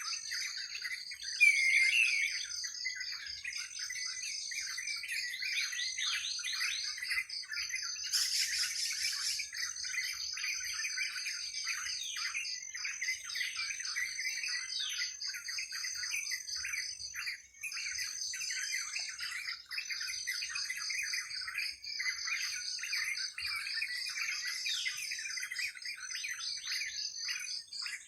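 A dense chorus of many birds chirping and calling at once, over a steady high-pitched trilling. One louder call stands out about two seconds in.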